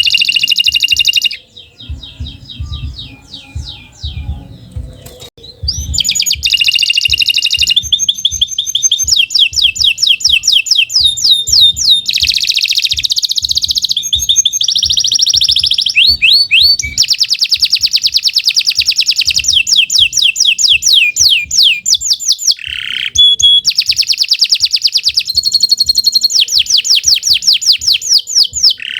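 Domestic canary singing a long, continuous song of fast trills and rolls, each made of quickly repeated sweeping notes. There is a short break about five seconds in.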